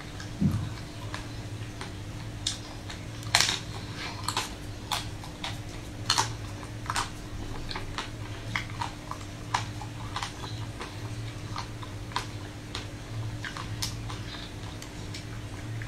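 Close-up mouth sounds of biting and chewing a chocolate-coated ice cream bar: the hard shell crackles and clicks in irregular crisp bursts, loudest about half a second and about three and a half seconds in, over a steady low hum.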